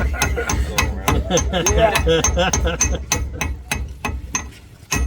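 Blacksmith's hand hammer striking metal in a quick, steady rhythm, about four ringing blows a second, as a hummingbird is forged. People talk and laugh over the blows in the first half.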